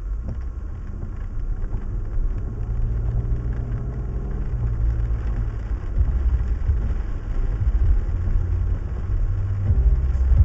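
Car engine heard from inside the cabin, pulling away from a stop and driving on. The low engine note steps up as it sets off, rises slightly over the first few seconds, then runs on steadily with road noise.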